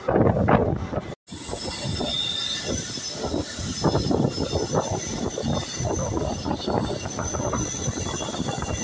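Indian Railways express train running on the rails, its wheels rattling over the track with a thin, steady high squeal. It is loudest in the first second, and the sound cuts out for a moment a little over a second in.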